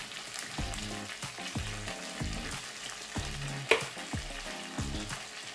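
Shredded chicken sizzling steadily in a frying pan, with one sharp clink of a utensil against the pan a little past halfway.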